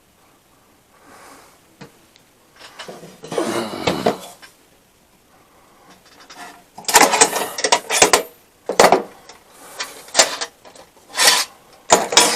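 Tools and parts being handled on a workbench: a soft rustle and scrape, then from about seven seconds in a run of sharp clunks and rattles.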